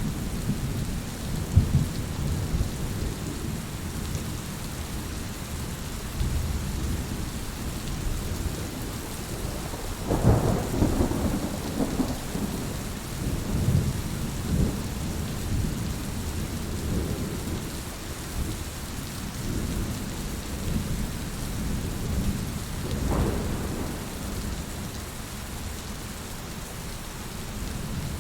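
Heavy rain falling steadily under low, rolling thunder. The thunder swells about ten seconds in and again more briefly a little past the twenty-second mark.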